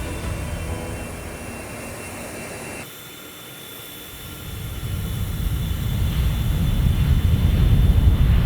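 Jet aircraft engines running, a deep rumble that drops off abruptly about three seconds in and then builds steadily louder through the rest.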